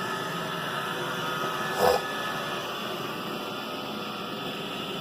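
iRobot Roomba 960 robot vacuum running on carpet, a steady whirring hum of its vacuum motor and brushes. A brief louder sound cuts in about two seconds in.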